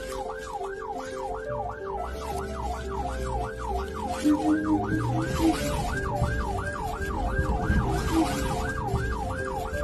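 Emergency vehicle siren in fast yelp mode, its pitch swinging up and down about three times a second, over a low rumble.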